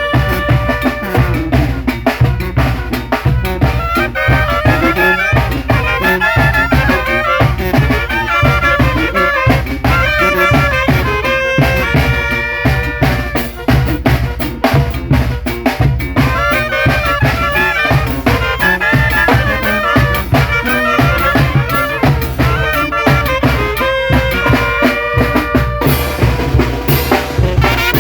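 Mexican banda (brass band) playing, with brass melody lines over drums and a steady bass-drum and snare beat.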